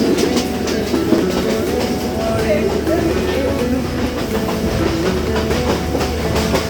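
Yal Devi express train running, with a steady low rumble and wheel clatter on the rails, under music with a stepping melody.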